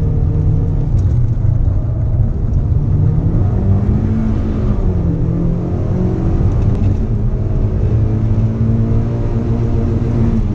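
Mazda MX5 engine heard from on board during a sprint run, pulling hard with its pitch climbing, easing briefly around the middle, then holding steady before falling away near the end.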